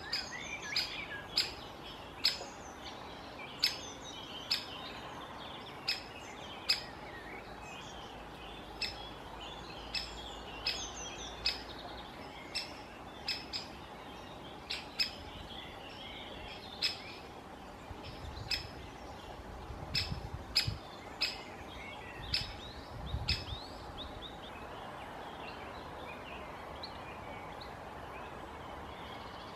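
Great spotted woodpecker giving sharp, single 'kik' calls, repeated irregularly about once a second, with fainter chirps of other small birds behind.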